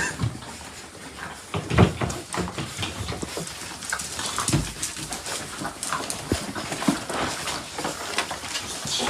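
A dog's noises mixed with scattered short knocks and clicks and a few heavier thumps, the loudest about two seconds in and another near the middle.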